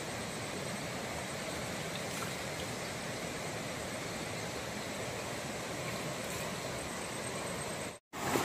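Stream water running steadily, an even rushing noise that cuts out briefly near the end.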